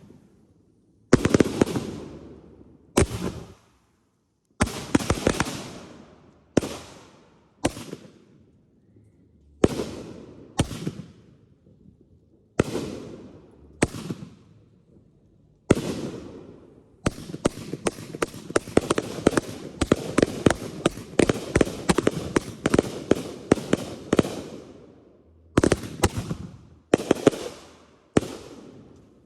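Consumer fireworks going off: a string of sharp reports, each trailing off in crackle, then a rapid barrage of many reports in quick succession through the second half before single shots resume near the end.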